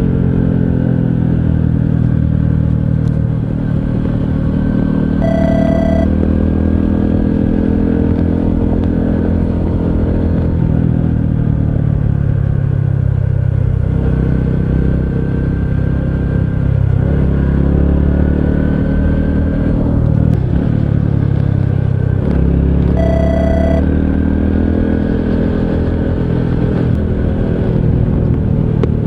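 Honda CT125 Hunter Cub's 125 cc air-cooled single-cylinder engine running under way, its pitch rising as it accelerates, dropping off as it slows, then climbing again. A short beep sounds twice.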